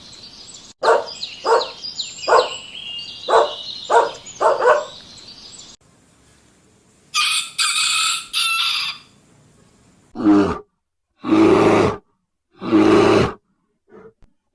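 A dog barking in short, quick barks with birds chirping behind, then a rooster crowing about seven seconds in, then an animal's deep calls, four in a row, about a second each.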